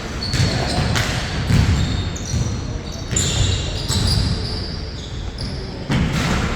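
Basketball bouncing on a hard court during live play, with repeated sharp thuds, short high-pitched sneaker squeaks and players' voices calling out.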